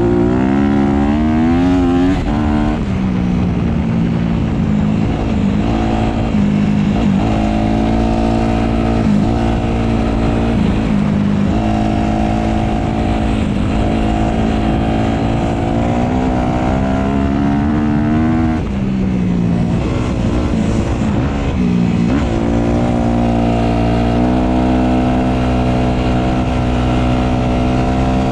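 Dirt bike engine running hard at speed, its pitch climbing with the throttle and dropping back again and again through the gears.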